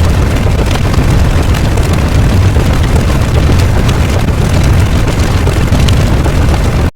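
Loud, continuous rumbling explosion-like sound effect, heavy in the low end, that cuts off suddenly just before the end.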